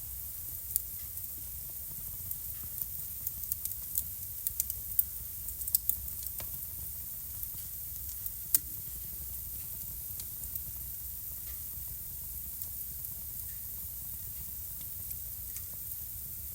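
Wood fire burning in a home fireplace: a steady hiss with frequent sharp crackles and pops, thickest in the first third and with one loud pop about halfway.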